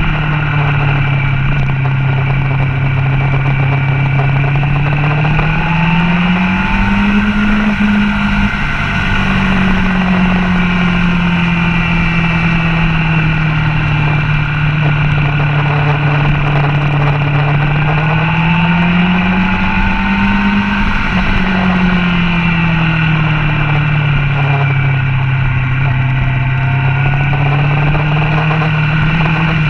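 Motorcycle engine running hard on track laps, heard from a bike-mounted camera; its pitch climbs twice, around seven and twenty seconds in, and falls back between as the rider works the throttle.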